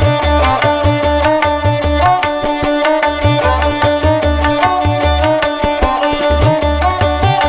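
Background instrumental music: plucked strings with many quick notes over a steady beat of low drum strokes, some of which bend in pitch.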